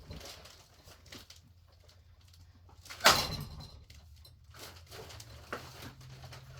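A single hard hit against a spinning ceiling fan about three seconds in, then a few faint knocks, over a low steady hum.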